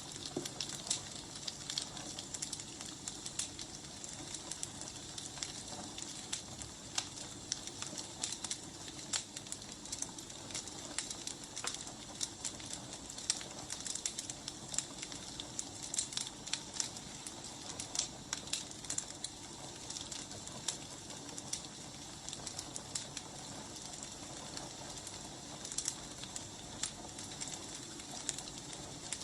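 Wood fire burning, with frequent small crackles and pops at irregular intervals over a soft, steady hiss.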